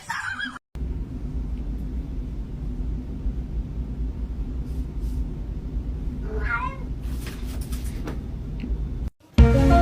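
A cat meows once, a short call that rises and falls about six and a half seconds in, over a steady low rumble.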